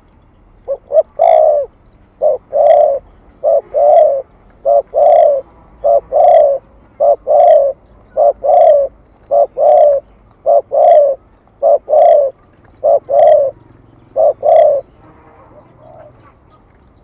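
Spotted dove cooing in the rhythmic 'gù' style that bird-keepers use as a lure. It gives about a dozen phrases, each a short note followed by a longer one, roughly one every second, then stops a couple of seconds before the end.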